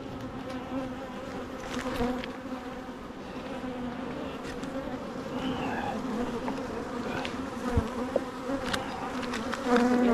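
Honeybees buzzing in a steady, droning hum around an open hive, with a few light knocks scattered through it.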